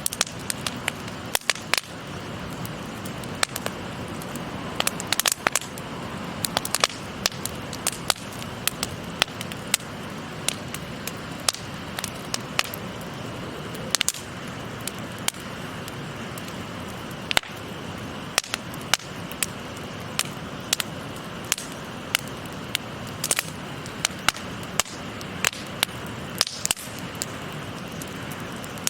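Campfire crackling with sharp, irregular pops over the steady murmur of a flowing stream.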